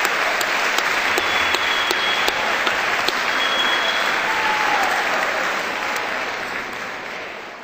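Audience applauding, with a couple of short whistles, fading out near the end.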